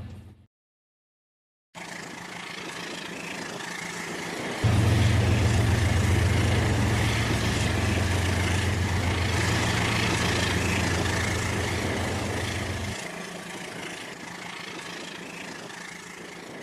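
Toy train running along its track with a steady rushing sound. A low engine-like rumble starts abruptly about four and a half seconds in and cuts off just as abruptly near the end. The sound cuts out completely for about a second near the start.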